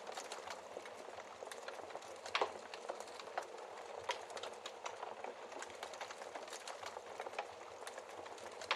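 Wood fire crackling: a steady hiss of burning with frequent small snaps and a few louder pops, the loudest about two and a half seconds in and near the end.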